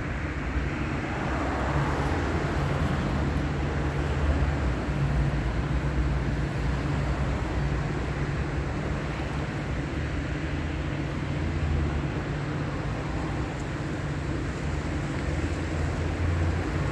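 Approaching train: a steady low rumble with a constant engine hum underneath, and a brief swell of wider noise about two seconds in.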